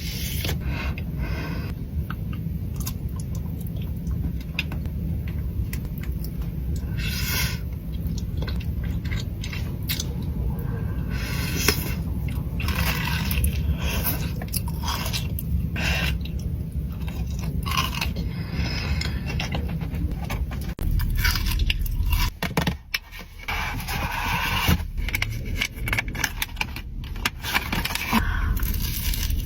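Close-miked eating of Dubai chocolate: irregular crunching, crackling and scraping sounds of chewing, over a steady low hum, with a brief quieter pause a little past the middle.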